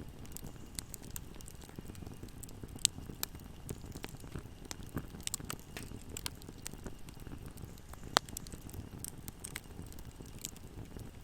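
Wood fire burning in a fireplace: a steady low rush of flames with many small crackles and snaps, and two louder pops about three and eight seconds in.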